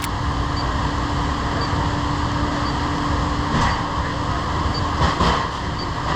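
Steady hum of a commercial refrigerator's running refrigeration unit (compressor and condenser fan), with a faint high beep about once a second from an electronic refrigerant leak detector searching for a leak. Two brief handling knocks or rustles come around the middle and near the end.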